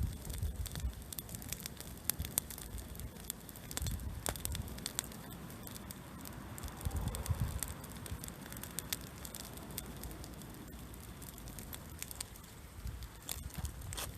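Bonfire of pruned kiwifruit vine cuttings crackling, with frequent sharp pops and snaps; the prunings have not dried out much.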